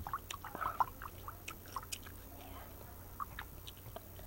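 Gum being chewed close to the microphone: irregular wet clicks and smacks.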